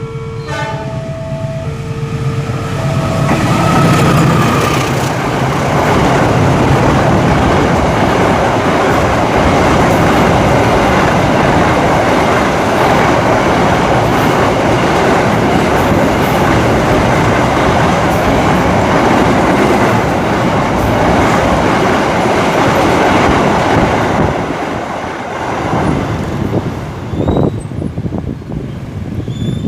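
A train passing close by, its wheels clattering over the rail joints. The noise swells over the first few seconds, holds loud and steady for about twenty seconds, then dies away near the end. A short run of alternating tones comes just before the train arrives.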